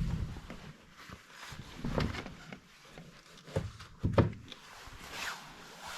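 Handling noises: a few scattered knocks and clicks, the loudest about 4 s in, with some rustling.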